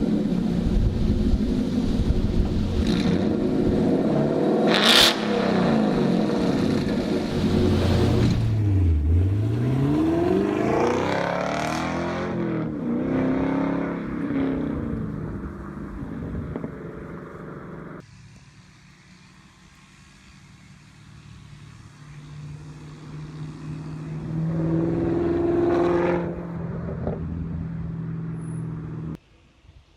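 V8 muscle car engine revving and accelerating, with a sharp crack about five seconds in and a car sweeping past around nine seconds in, its pitch dipping. The sound drops abruptly to a quieter, steadier engine about eighteen seconds in, which swells briefly with a rev near the end.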